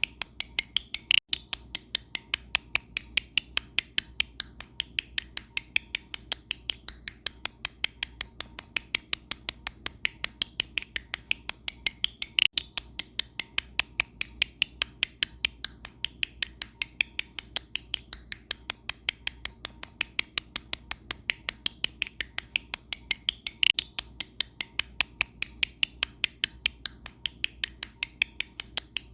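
Sharp clicks repeating at an even pace, about four a second, with a slightly louder click three times.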